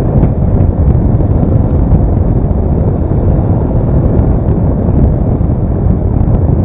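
Steady wind rumble on the microphone over the road and engine noise of a Daelim S3 motorcycle under way at cruising speed.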